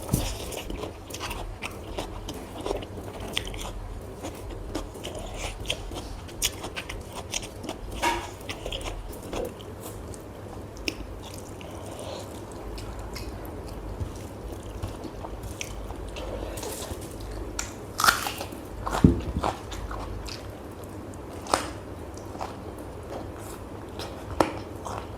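Close-up eating sounds: chewing and biting food, with many small crunchy clicks and a few louder crunches in the last third.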